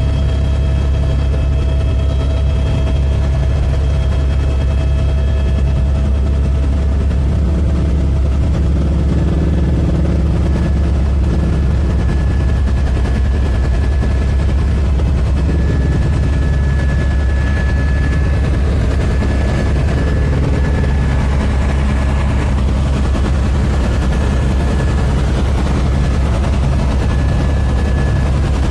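Helicopter in flight: a loud, steady low rotor thrum with a few thin steady tones above it.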